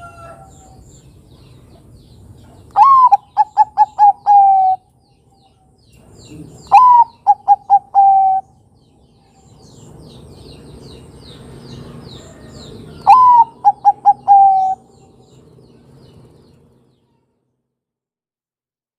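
Zebra dove (perkutut) singing three song phrases, each opening with a note that rises then falls, running into a quick string of short coos and ending in a longer held note. Faint high chirps of small birds behind.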